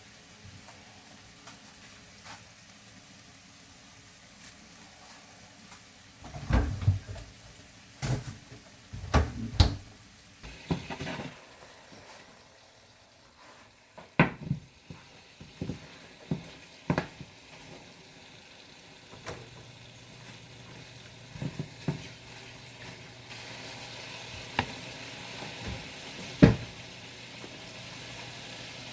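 A string of sharp knocks and clatters, like objects being handled and set down, with a low steady hum coming in about two-thirds of the way through and a steady hiss joining it shortly after.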